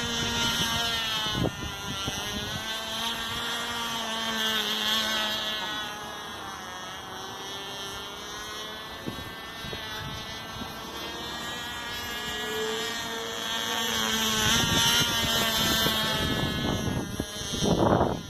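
Cox .049 (0.8 cc) glow engine on a small balsa model plane running flat out with a high-pitched buzz. Its pitch slowly rises and falls as the plane flies around, and it grows louder as the plane comes closer about fourteen seconds in.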